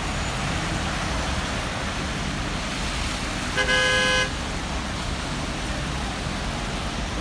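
A car horn sounds once, briefly, about halfway through, over a steady hiss of rain and traffic on a wet street.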